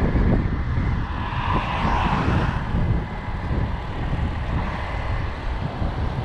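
Heavy diesel truck engine running steadily at a loud, even level, a deep rumble with a faint steady whine above it.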